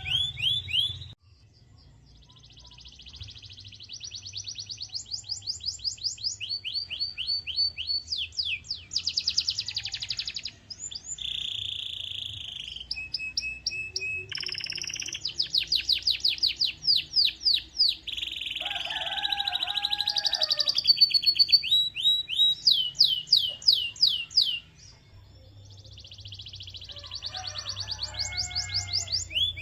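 Domestic canary singing: long runs of rapid repeated trill notes, each run at a different pitch, with short pauses about a second in and near the end.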